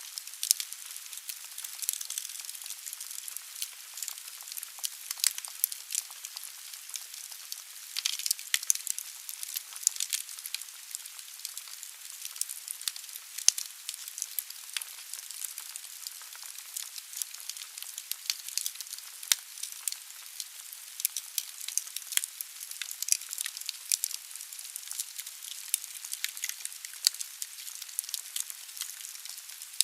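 Firewood burning in a fireplace: irregular sharp pops and snaps over a steady hiss of the fire, with a busier run of crackles around eight to ten seconds in.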